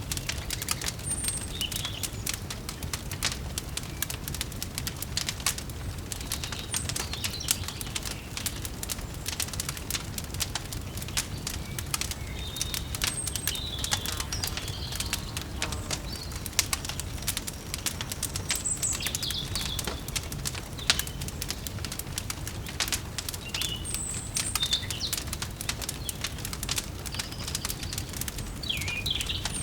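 Wood fire crackling with dense irregular pops over a low steady rumble, and birds chirping now and then with short high calls.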